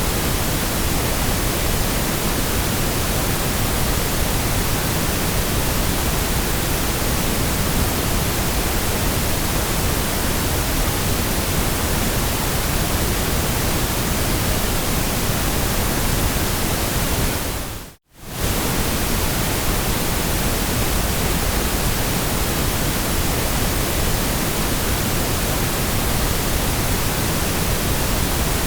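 Steady, even hiss of white noise, with no tones or events in it. About two-thirds of the way through it fades out to near silence and back in within about a second.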